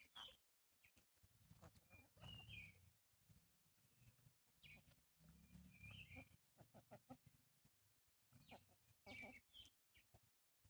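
Faint birds chirping, in short separate calls, some with a quick slide in pitch. Under them there are patches of low rumble.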